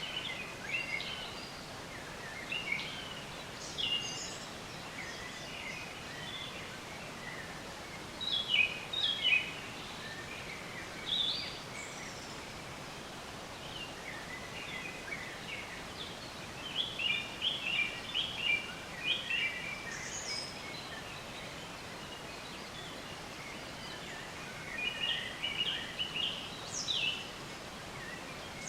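Songbirds chirping in short, scattered phrases over a steady faint background hiss, with busier clusters of calls about eight seconds in, from about sixteen to nineteen seconds, and near the end.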